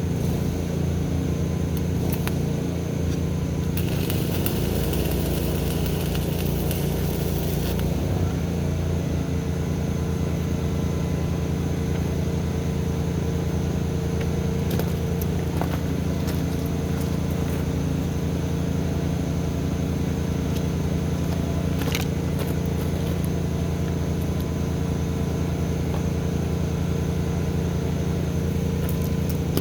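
An engine running steadily at a constant speed, with a crackling hiss for a few seconds about four seconds in.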